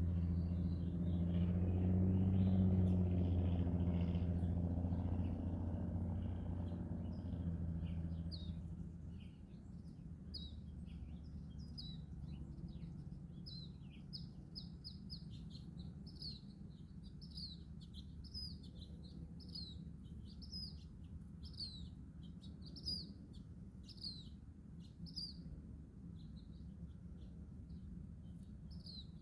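Birds chirping: many short, high chirps, each sliding downward, coming thick and fast through the second half. A low steady hum is loudest for the first nine seconds, then fades away.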